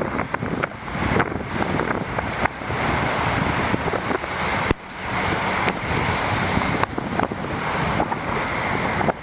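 Wind buffeting the camera microphone of a bicycle ride on wet roads in the rain, a dense rushing noise with scattered short clicks and rattles.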